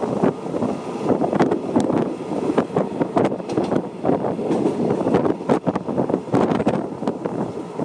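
Passenger train running at speed, heard at an open window: a steady rumble of wheels on the track with irregular rattling and clatter, and wind buffeting the microphone.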